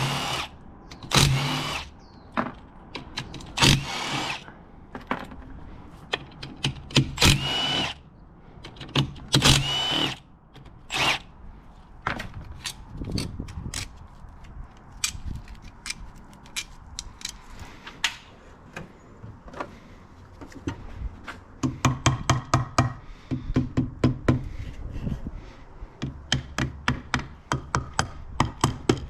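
Handheld power tool, like a cordless drill or impact driver, whirring in several short bursts as fasteners are run out of the engine. This is followed by a long string of sharp metallic clicks and, near the end, quick rhythmic rattling like a tool working a fastener.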